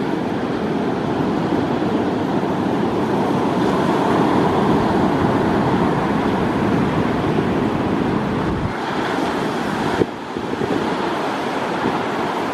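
Steady rushing outdoor noise without any tone, swelling a little midway, with a single sharp knock about ten seconds in.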